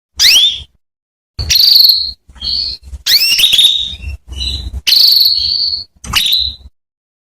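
Female canary calling: about seven separate bursts of high notes, short rising chirps alternating with longer buzzy trilled notes, with brief silences between them. These are the calls used to lure and prompt a male canary into singing.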